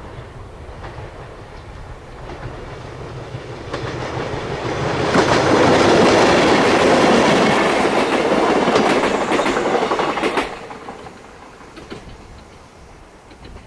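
Yoro Railway electric train (set D23) approaching and passing close by, its wheels clacking over the rail joints as the cars go past. The sound builds, is loudest from about five to ten seconds in, then drops off quickly as the train moves away.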